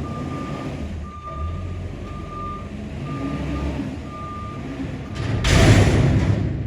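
Peterbilt garbage truck with a Heil body reversing, its backup alarm beeping about once a second over the diesel engine running. About five and a half seconds in, a loud hiss of air bursts out for about a second.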